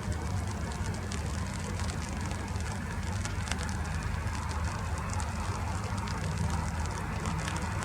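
Rain falling, with a steady patter of many small irregular drop ticks over a continuous low rumble.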